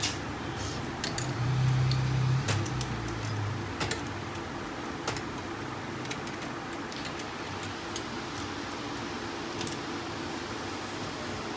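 Small metal parts and screws clicking and rattling as a laser printer is dismantled by hand, over a faint steady hum. A louder low rumble comes about a second in and lasts a couple of seconds.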